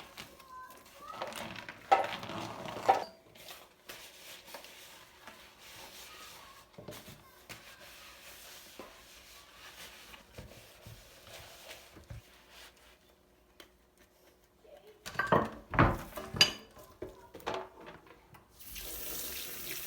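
Dishes and utensils knocking and clattering in a sink, in two busier spells, then a tap is turned on and water runs near the end.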